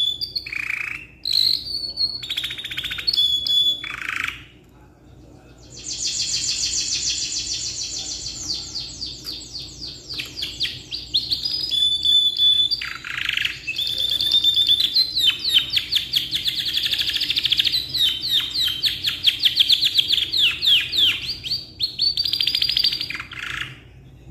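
Domestic canary singing a long song of rapid rolling trills. It starts with a few short phrases, pauses briefly about five seconds in, then sings one long unbroken run of fast repeated notes, the rolling song prized for tutoring young canaries.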